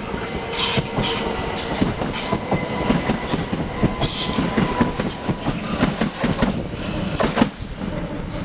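Class 375 Electrostar electric multiple-unit train running through the station, its wheels clattering over rail joints and points in a dense run of clicks and knocks, with a faint steady whine underneath.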